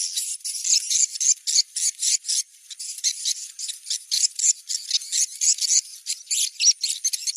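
Swiftlet call recording used as a location-check lure for swiftlets: dense, rapid high chirping and twittering over a steady thin high tone.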